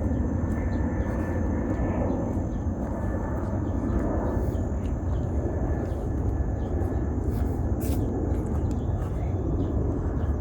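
Outdoor urban ambience: a steady low rumble of distant traffic, with faint irregular ticks over it.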